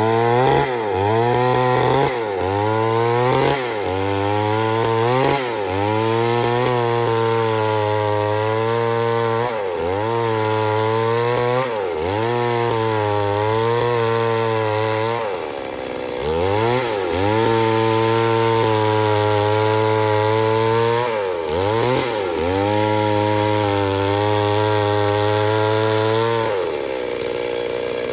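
Two-stroke chainsaw running at high revs while cutting wood. Its note dips briefly and recovers every second or two, then holds steady for stretches. It eases off near the end.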